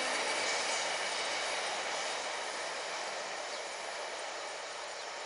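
Vale passenger train's cars rolling by on the rails: a steady rushing wheel-and-rail noise that slowly fades as the train moves away.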